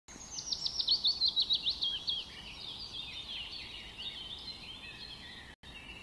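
Birds singing outdoors: a fast run of about a dozen sharp down-slurred chirps in the first two seconds, then softer overlapping chirps and twitters of several birds over a steady hiss of outdoor ambience.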